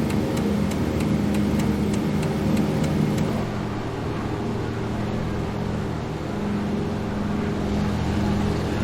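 Twin radial piston engines of a DC-3 droning steadily. A faint, quick ticking about four times a second runs alongside the drone and stops about three seconds in.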